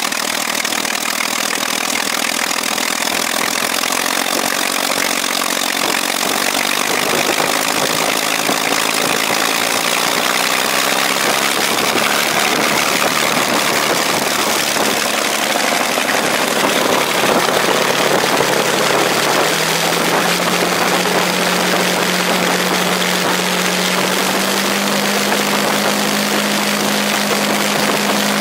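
Rolls-Royce Merlin 500-29 27-litre V12 aero engine running on a ground test run, a dense steady engine sound. Its pitch steps up about two-thirds of the way through and again near the end as engine speed is raised.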